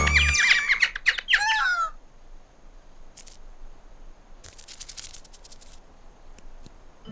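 Cartoon small birds chattering and squawking in quick, gliding chirps for about two seconds. Then a quieter stretch with a few short flutters or rustles.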